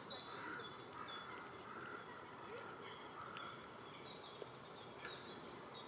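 Wild birds calling: small songbirds chirping throughout, with a quick run of short, muffled lower calls in the first half.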